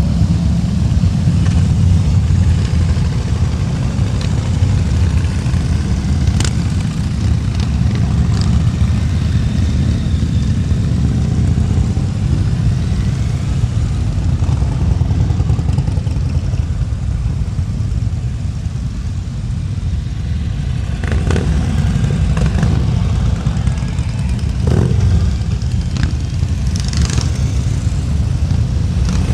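Harley-Davidson V-twin motorcycle engine running steadily on the road, a loud, deep rumble. A few brief clicks come through now and then.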